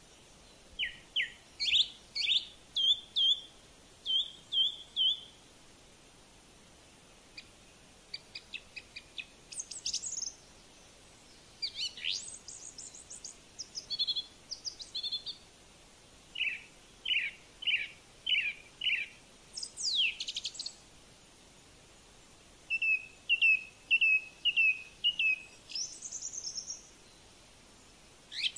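A bird calling: runs of short, sharp chirps and whistled notes, several in quick succession and then a pause, with a long falling whistle about two-thirds of the way through.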